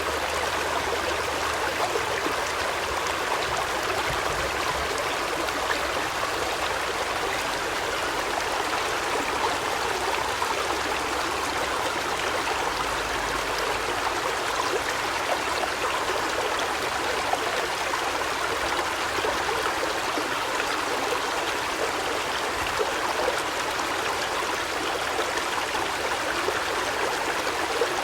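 Running water rushing steadily, an even splashing hiss that holds without a break.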